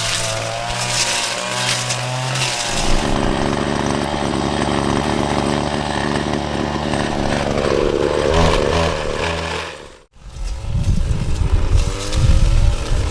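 A small engine running, its pitch shifting. It cuts off abruptly about ten seconds in, then picks up again sounding rougher.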